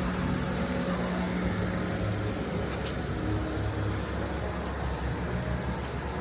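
Street traffic ambience: a motor vehicle's engine running with a steady low hum, and a few faint clicks.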